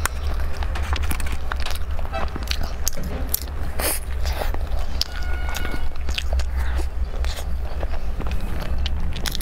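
Close-miked eating of a soft rolled cake: the roll is handled and bitten into, then chewed with many small wet mouth clicks and smacks. A steady low hum runs underneath.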